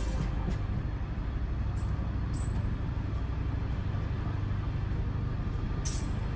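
Light rail train running along the track: a steady low rumble, with a couple of sharp clicks.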